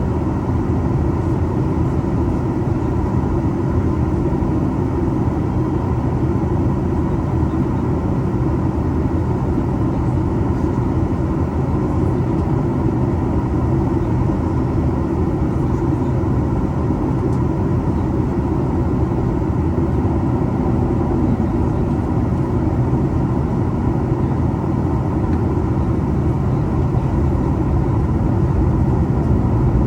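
Boeing 737 MAX 8 with its CFM LEAP-1B engines running: a steady, even rumble with a few faint low hums.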